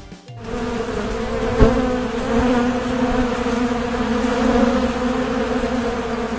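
Honey bees buzzing, a steady droning hum that starts about half a second in.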